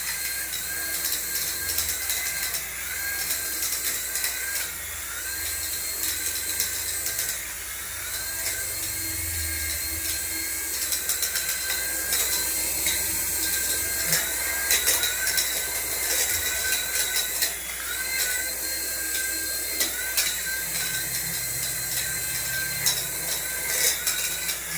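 Small electric motor of a toy RC vehicle whining, its pitch repeatedly dipping and rising as the throttle changes, with frequent clicks and rattles.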